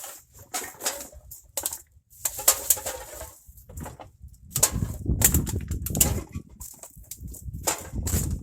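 Irregular rustling and clattering of loose items and trash being handled and moved about in a truck bed. It grows busier and heavier about halfway through.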